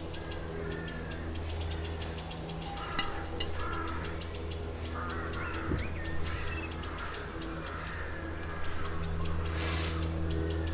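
Woodland birdsong: a songbird repeats a short, bright descending trill every few seconds, with fainter calls from other birds. A steady low hum runs underneath.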